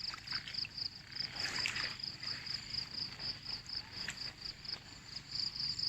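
Insects chirping in a steady, high-pitched pulsing trill, several pulses a second, over a faint low outdoor hum.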